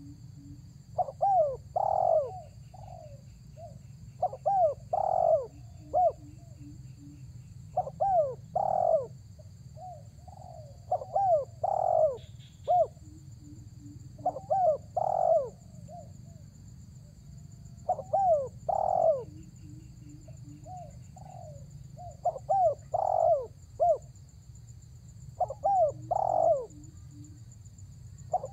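Spotted dove (tekukur) cooing: a multi-note coo phrase repeated about every three to four seconds. It is the call a male gives to challenge a rival, used as a lure for wild doves. A steady low hum runs beneath.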